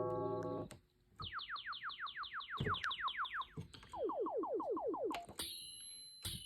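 Yamaha DX7 FM synthesizer sounding cartridge patches. A sustained bell-like chord cuts off, then comes a quick run of falling zap-like sweeps, about six a second, followed by a lower run of falling sweeps. Near the end a bright, high, metallic bell tone begins.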